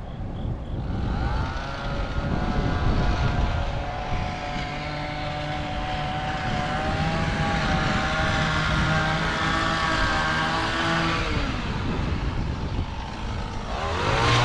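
A motor vehicle passing close by. Its pitched hum rises about a second in, holds steady, then drops in pitch and fades near the end, over steady traffic noise, as another vehicle's hum starts up.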